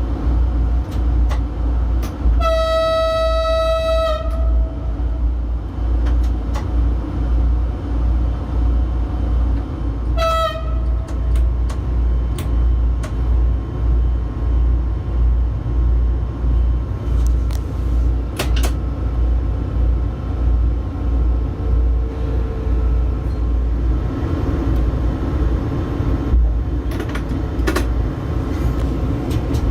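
A train running with a continuous, pulsing low rumble. Its horn sounds one long blast about two seconds in and a short toot about ten seconds in.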